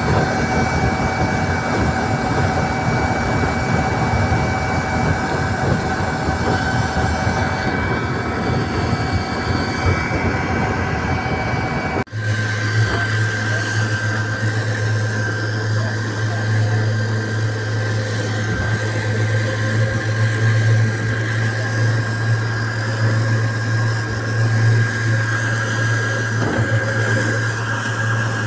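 Speedboat engine running at a steady cruising speed, with a dense noise of water and hull beneath several steady tones. About twelve seconds in the sound cuts abruptly to a second stretch, where a strong steady low hum dominates.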